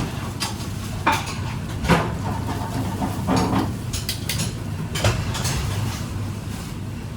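Kitchen dishes, pans and metal utensils clinking and knocking, a string of separate clinks, some ringing briefly, over a steady low hum.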